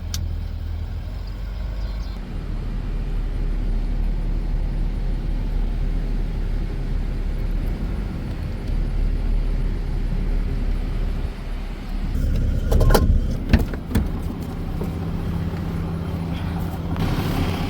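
Truck engine running steadily as the truck drives, with a short cluster of knocks and rattles about two-thirds of the way through.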